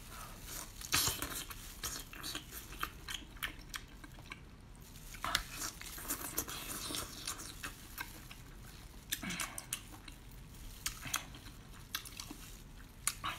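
Wet chewing and biting on a whole octopus, with many irregular sticky mouth clicks and smacks.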